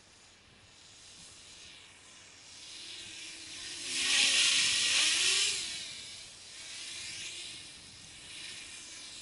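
Small quadcopter's brushless motors and propellers whirring, their pitch bending up and down with throttle over a hiss of air. The sound builds to a loud surge about four seconds in, then eases off.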